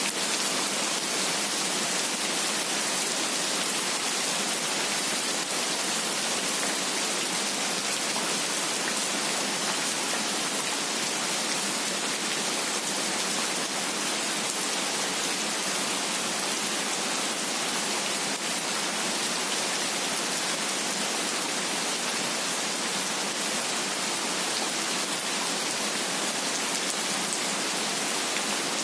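Steady rain, an even hiss with no let-up and no thunder.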